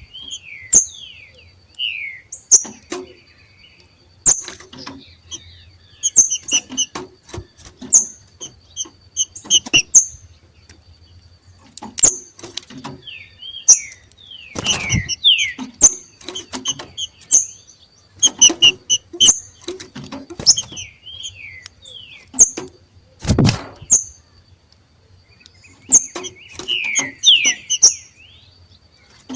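Two green-winged saltators giving their 'macheado' call: clusters of short, sharp chips and quick falling notes with clicks among them, repeated irregularly. This call is the saltators' breeding-condition display.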